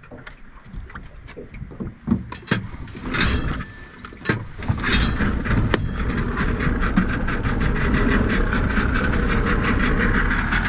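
A few knocks and bumps, then, about four and a half seconds in, a skiff's outboard motor starts running steadily with a fast, even pulse.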